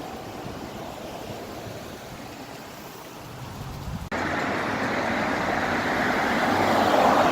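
A steady, even rushing noise like wind or passing traffic. About four seconds in it cuts to a louder, brighter rush, which stops abruptly at the end.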